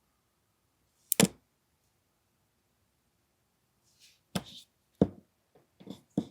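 Hard knocks and taps of tools and pistol parts being handled and set down on a work surface: one loud knock about a second in, then several lighter knocks near the end.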